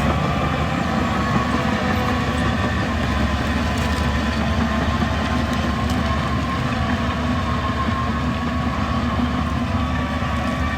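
Diesel engine of heavy earthmoving machinery running steadily at a constant pitch.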